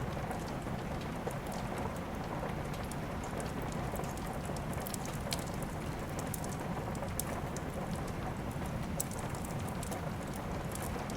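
Steady rain falling, a dense even hiss, with many small sharp crackles and pops of a wood fire scattered through it.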